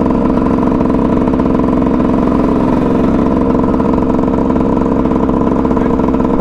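Dirt bike engine running at a steady speed, its pitch holding level throughout.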